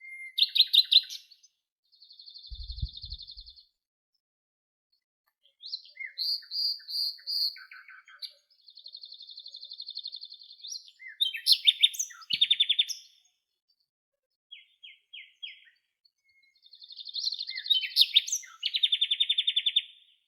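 Songbirds singing: a string of short chirps and fast trills in separate phrases, with silent gaps between them and a longer, louder trill near the end.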